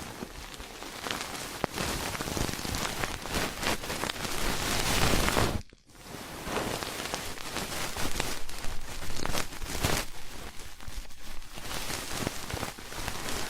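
Close-miked ear-cleaning ASMR: an ear pick scratching and rubbing, a dense crackling rustle full of tiny clicks, with a brief break a little before halfway.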